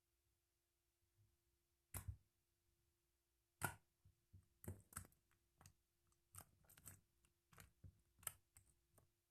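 Slime being squeezed and worked by hand, giving sharp wet pops and clicks at irregular intervals, starting about two seconds in.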